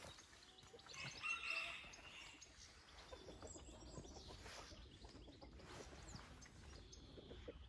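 Domestic chickens clucking softly, with one louder call about a second in, and faint small-bird chirps behind.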